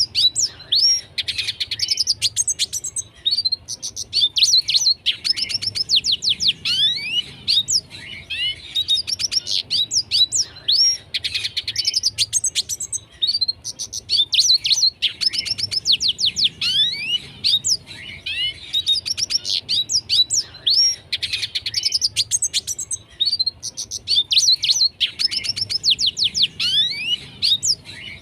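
Red siskin singing: a fast twittering song of rapid trills and quick sweeping notes, delivered in phrases with short pauses between them.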